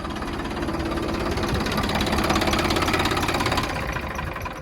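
Mini tractor engine running with a fast, even pulse, growing louder a couple of seconds in and then easing off.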